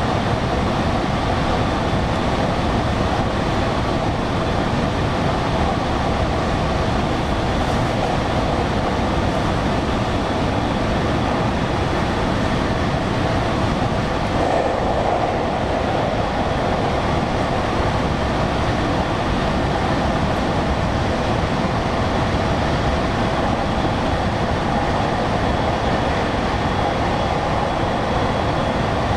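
Steady running noise of a JR West Special Rapid Service electric train, heard from inside the carriage, an even rumble and hum with no stops or clear rail clicks.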